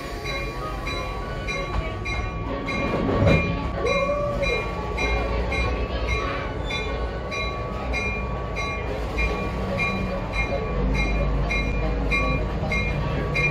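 Passenger train pulling slowly out of the station, a low rumble building under a bell ringing steadily about twice a second.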